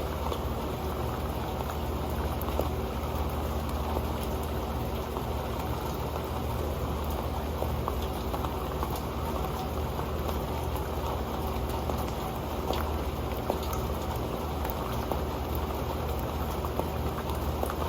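Rain falling on an old pan: a steady, dense patter of drops with many small, sharper ticks scattered throughout.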